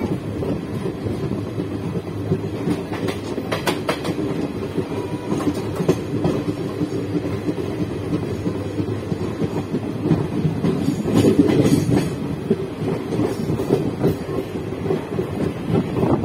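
Passenger train coach's wheels running along the track at speed, heard from the open coach doorway: a steady rumble with the clickety-clack of wheels over rail joints. Louder clusters of clatter come a few seconds in and again about eleven seconds in.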